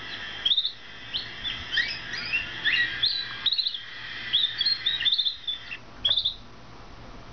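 Canary chirping repeatedly in short, sharp, upward-bending notes, over a steady high trill that stops abruptly about six seconds in.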